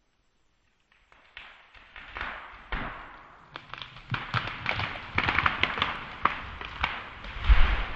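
Tamarack tree falling: wood and branches cracking and snapping in quick succession as it goes over, ending in a heavy thud as the trunk hits the ground.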